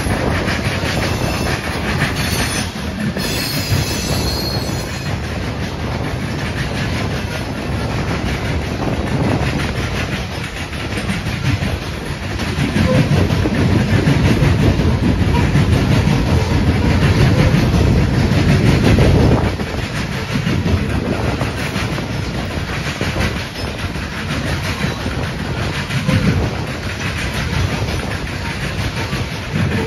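Coal hopper cars of a freight train rolling past, a steady rumble and clatter of steel wheels on the rails that swells louder for several seconds in the middle and again near the end. A brief high wheel squeal rises about three seconds in.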